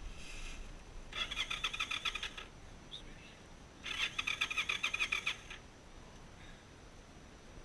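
Crashed cruiser motorcycle's electric starter cranking the engine in two tries of about a second and a half each, a rapid even pulsing, without the engine catching.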